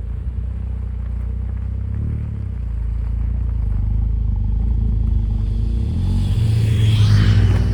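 Suzuki Jimny JB64's 660 cc turbocharged three-cylinder engine running with a steady low exhaust note. It grows louder near the end, with a brief rushing noise at its loudest point.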